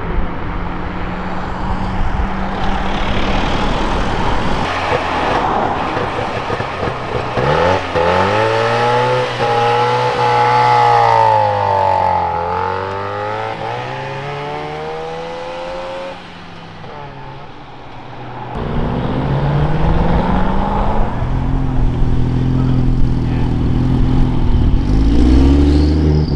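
Modified cars driving past one after another, engines running loud. About eight seconds in, one car passes with its engine pitch rising and then falling; after a brief lull another car's engine comes in and revs up near the end.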